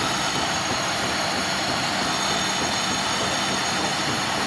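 Toyota Corona's 3S four-cylinder petrol engine running steadily, a constant hum under an even rushing noise.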